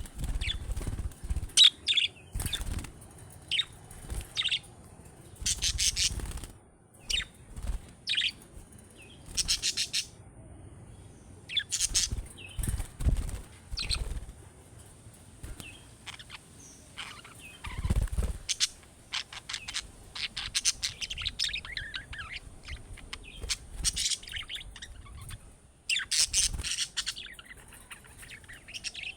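Budgerigars chirping and warbling in short, irregular bursts, with occasional low thumps or rustles among them.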